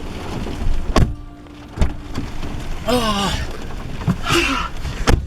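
Rain and sleet falling on a pickup truck, with three sharp knocks about a second in, near two seconds and near the end, and a brief voice partway through.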